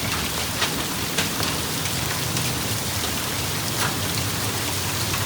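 Heavy rain pouring steadily, with hailstones landing as a few scattered sharp knocks over the hiss.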